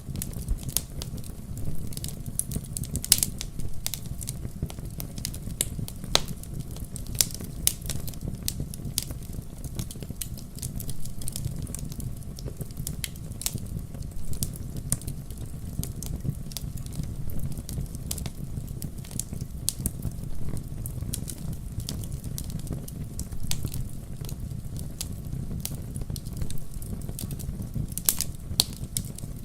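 Wood fire of burning logs in a fireplace, crackling with frequent irregular sharp pops over a steady low rumble of flame.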